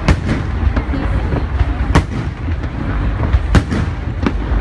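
Aerial fireworks shells bursting: several sharp bangs, the loudest about two seconds in and a little past three and a half seconds, over a continuous low rumble of further explosions.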